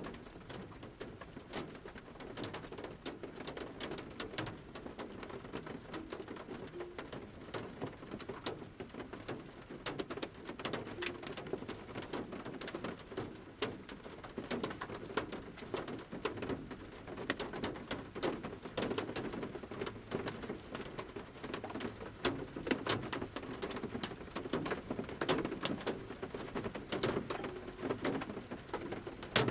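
Large raindrops falling from the forest canopy and pattering at irregular intervals on the metal roof of a camper van, heard from inside the van: many separate sharp taps over a steady rain hiss.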